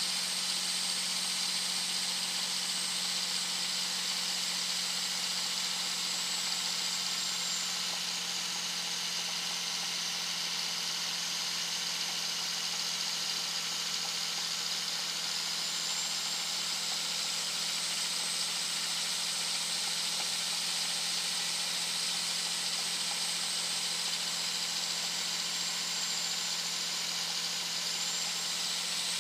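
2001 Dodge Ram 2500's 5.9-litre Cummins inline-six turbo diesel cruising at highway speed, its turbocharger giving a loud, high whistle. The whistle sags in pitch about a third of the way through and climbs back, then dips and rises again near the end, over a steady low drone and road hiss.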